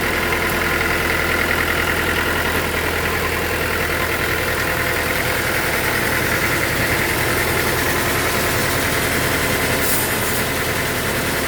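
Sawmill machinery running at a steady engine speed: an even, unchanging mechanical hum.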